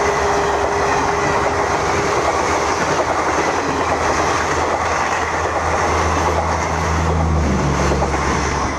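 Passenger coaches of an Indian express train running past at speed close to the track: a loud, steady rush of wheels on rail.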